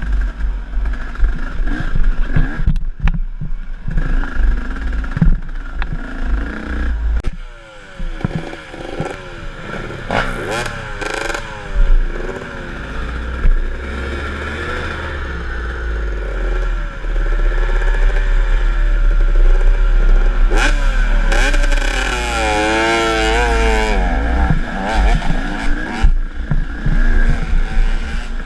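KTM enduro dirt bike engine revving up and down as it is ridden along a trail, its pitch rising and falling repeatedly with the throttle. Low wind rumble on the microphone and the clatter of the bike over rough ground run under it.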